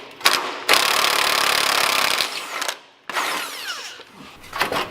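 Handheld power tool run in three bursts: a short one, a long one of about a second and a half, then a shorter run that winds down with falling pitch.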